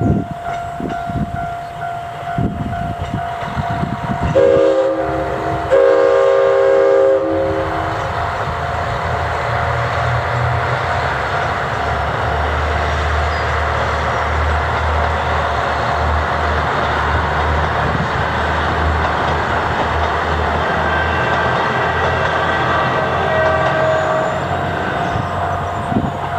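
Diesel railcar's air horn sounding two blasts about four to seven seconds in, followed by the railcar running past with a steady low engine rumble.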